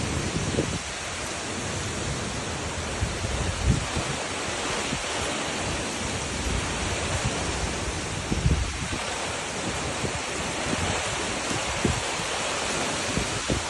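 Storm wind rushing steadily and loudly, with gusts buffeting the microphone several times.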